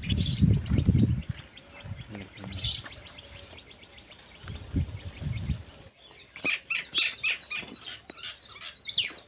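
Small birds chirping in quick, short calls that sweep downward in pitch, thickest in the second half. In the first second there is a low rumbling handling noise, with a shorter one about five seconds in.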